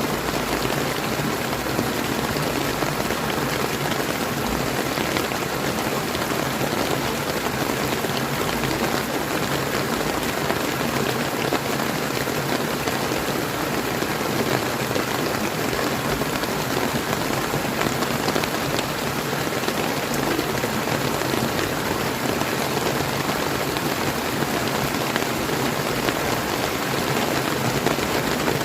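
Steady rain falling together with the flowing water of a clear river, an even, unbroken hiss with no separate events.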